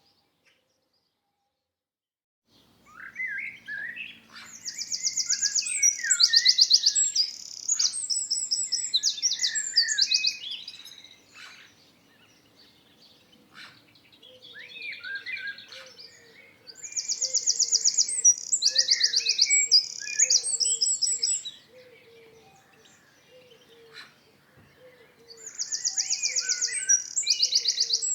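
Songbirds singing in three bouts of rapid, high trills mixed with lower chirping notes, after about two seconds of silence at the start. A faint low note repeats evenly through the second half.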